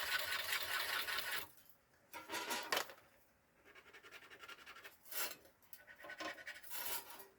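Scratching and rubbing of tools and metal parts being handled at a workbench. A steady scratch lasts about a second and a half, then come several short scrapes.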